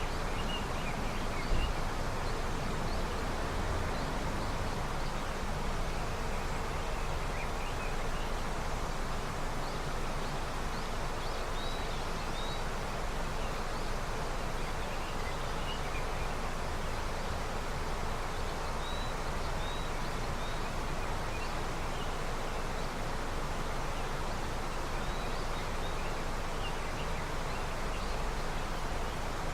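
River running with snowmelt: a steady, even rush of flowing water. Faint short high chirps come now and then, and a brief low thump sounds about a second and a half in.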